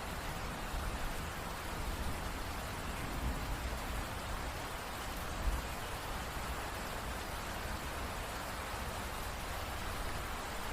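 Steady rain falling on a surface, an even hiss of many drops. There is one brief low thump a little past halfway.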